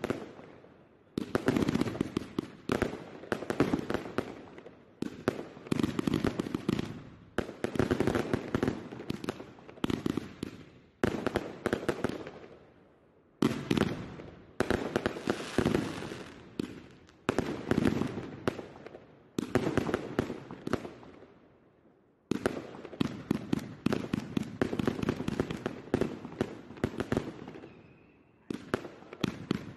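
Aerial fireworks bursting in rapid succession. Each loud bang trails off into a dense crackle, and there are a few brief lulls between volleys.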